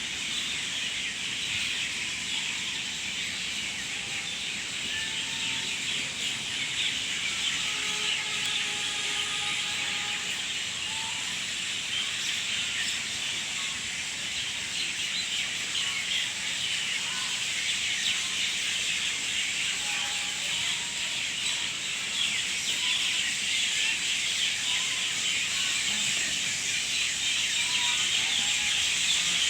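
Outdoor nature ambience: a steady high hiss with short bird chirps scattered throughout.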